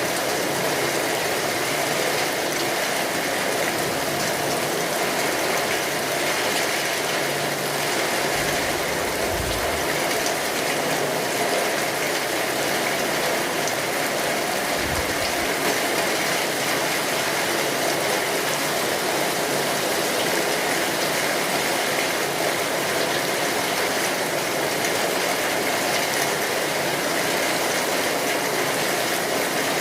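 Steady rain pattering on a tin roof, with a crackling fire. Two brief low rumbles come about 9 and 15 seconds in.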